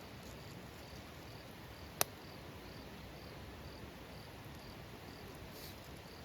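An insect chirping steadily, short even chirps about two a second, over a low background hiss. A single sharp crack about two seconds in is the loudest sound.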